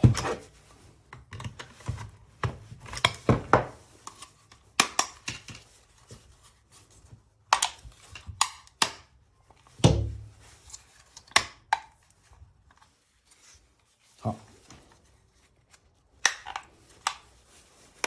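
Irregular clicks, knocks and light rattles of a car door lock mechanism being handled and clipped back together by hand, with a few louder knocks of parts against each other.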